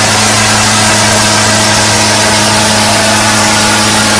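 A heavy vehicle engine running steadily at an unchanging pitch.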